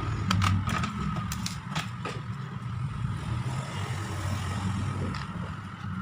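Sharp clicks and taps from the plastic parts of a laptop being handled and pried apart during disassembly, mostly in the first two seconds, over a steady low background rumble.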